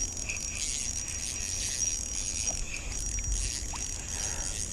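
Steady, high-pitched drone of summer insects, with a faint low rumble underneath.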